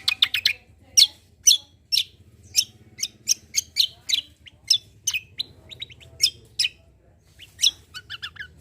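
Kecial kombo songbird singing a string of sharp, high chirps that sweep down in pitch, about two or three a second, with quick rattling runs of chirps at the start and again near the end.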